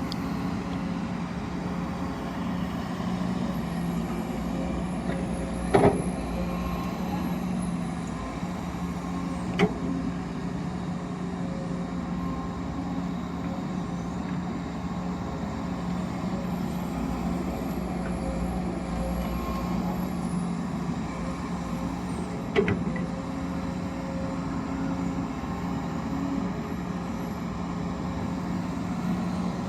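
Excavator and haul truck at work: a steady machine drone, with three sharp knocks about six, ten and twenty-three seconds in.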